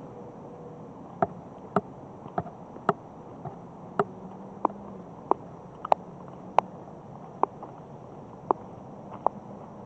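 A series of sharp clicks or taps, about one a second at uneven spacing, over a steady high-pitched insect drone.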